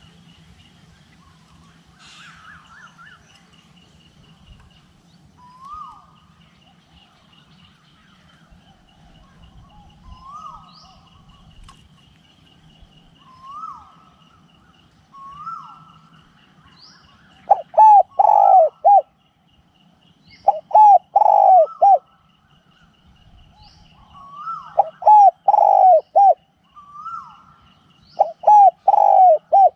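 Spotted dove cooing: four loud phrases of three or four coo notes, the first a little past halfway, a few seconds apart. Other birds call softly throughout over a steady high insect trill.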